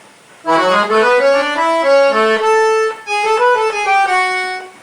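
Accordion (sanfona) playing a forró melody phrase one note at a time. It starts about half a second in with a quick climbing run of notes, breaks briefly near three seconds, then goes on with a few held notes.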